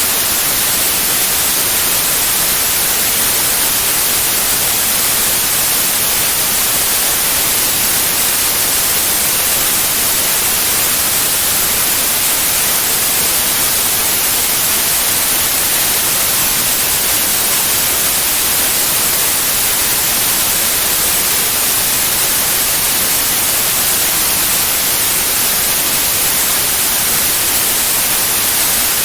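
Steady white noise: an even, unbroken hiss, brightest in the highs, played as a sleep sound for babies.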